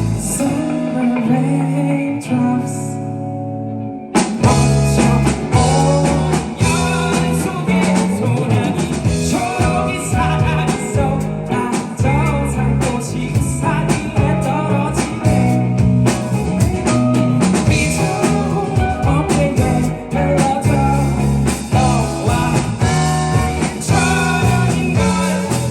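Live rock band playing a song with singing and guitar. Held chords carry a quieter passage, then the full band comes back in about four seconds in.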